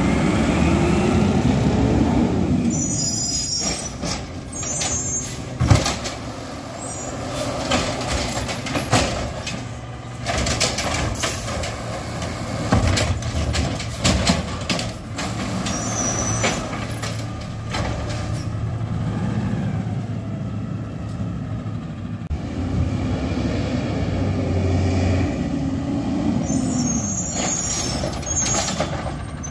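Garbage truck's diesel engine running, with whines that rise and fall near the start and again near the end, scattered knocks and clanks, and short bursts of air hiss.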